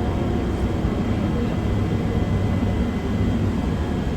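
Inside an airport tram (automated people mover) while it runs between stations: a steady low rumble with a faint constant whine over it.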